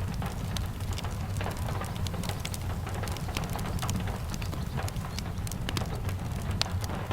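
Steady rain with a low rumble underneath, and many sharp, irregular crackles and pops from a wood fire burning in a fireplace.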